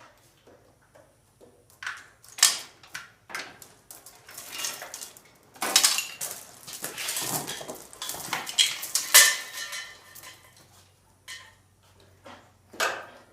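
Irregular metal clanks, rattles and scrapes of tools and steel parts being handled, with the loudest hits about two and a half, six, nine and thirteen seconds in.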